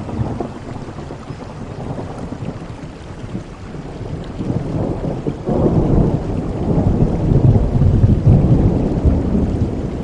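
Thunder rumbling over heavy rain: a low roll sets in at the start, then swells from about halfway into a longer, louder rumble that carries on to the end.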